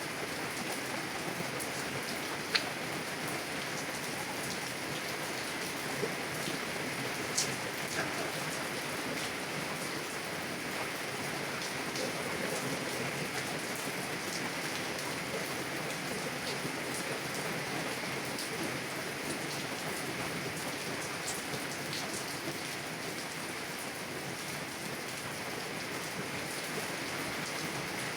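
Heavy rain hitting a car window: an even, steady hiss of rain with the occasional louder single drop ticking against the glass.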